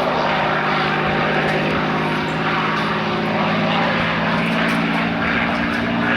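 P-51 Mustang's Packard Merlin V-12 engine running at power as the propeller warbird flies its aerobatic display, a steady, even engine note with a slight change in pitch near the end.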